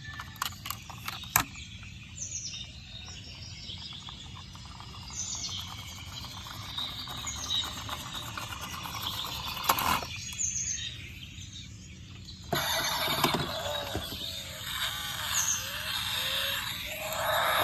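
Short high chirps, like bird calls, repeating every couple of seconds over a steady background hiss. There are a few sharp clicks near the start, and a louder, busier layer of sound comes in about two-thirds of the way through.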